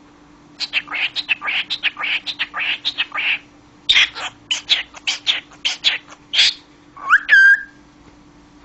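Pet cockatiel chattering in two quick runs of short, raspy, high notes, then giving a single rising whistle near the end.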